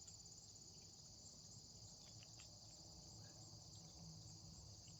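Faint, steady insect chorus: a continuous high trill.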